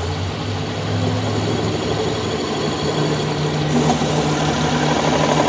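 An engine running steadily, its pitch stepping up slightly about halfway through.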